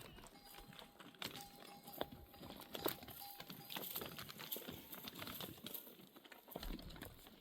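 A flock of sheep on the move: faint scattered clicks and patter of many small hooves on rough ground.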